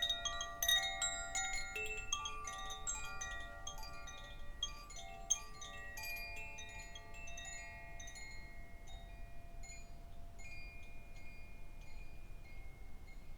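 Wind chimes ringing: a dense shower of bright, overlapping struck notes that thins out after a few seconds to scattered single tings left to ring on.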